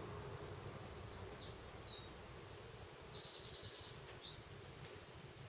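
Faint high chirps and a short rapid trill from a small bird in the background, over quiet room noise.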